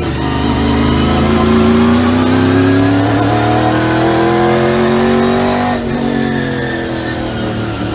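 Race car engine accelerating, its pitch climbing steadily for about five seconds, then dropping sharply near six seconds in and easing slowly lower.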